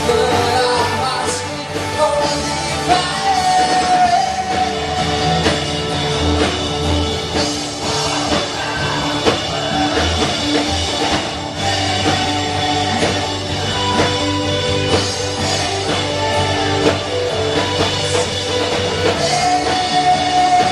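Rock band playing a song with a singer and guitar.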